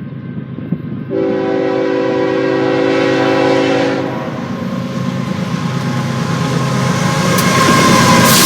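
Freight locomotive air horn sounding one long blast starting about a second in and lasting about three seconds, followed by the train's engine and wheel noise growing steadily louder as it approaches.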